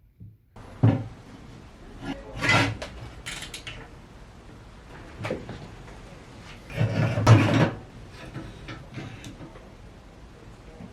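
Irregular scrapes and knocks of objects being handled in a workshop, a handful of short ones and one longer, louder scraping stretch about seven seconds in.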